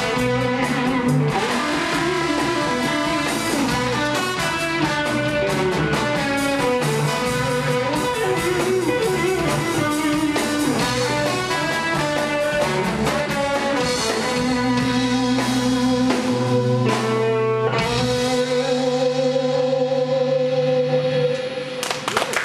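Band playing an instrumental rock-blues passage with electric guitar and drum kit, ending on a long held chord near the end.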